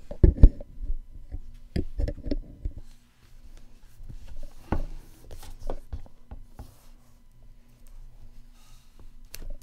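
A shrink-wrapped cardboard box being handled: several dull knocks and bumps, the strongest just after the start, around two seconds in and near five seconds, with light rubbing and ticks of the plastic wrap between them.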